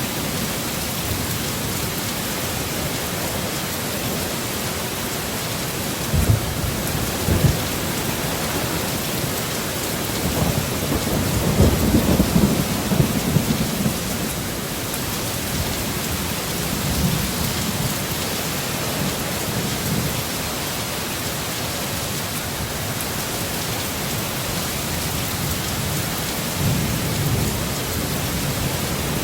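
Heavy rain falling steadily, with thunder. Two sharp cracks come about six and seven and a half seconds in, a longer rolling rumble follows around the middle, and softer rumbles come later.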